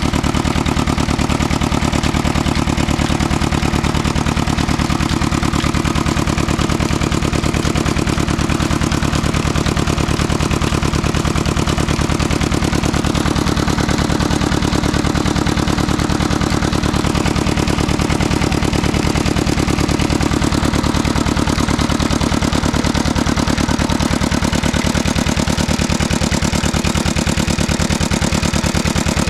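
Large 35 hp diesel tubewell engine running steadily, with a fast, even beat.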